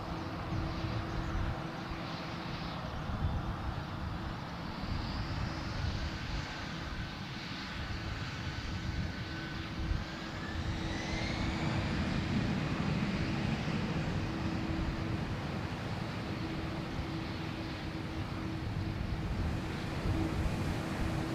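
Jet airliner engines during a takeoff, a steady jet noise with a thin whine that rises in pitch about halfway through.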